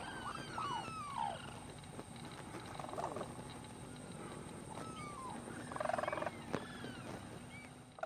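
Wild birds calling: a quick run of short, falling whistled notes in the first second, then scattered single calls and a brief chatter about six seconds in.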